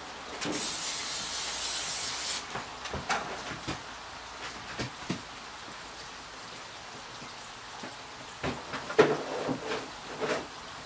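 Aerosol cooking spray hissing in one burst of about two seconds, greasing the barbecue grill. Scattered light knocks and clatters follow.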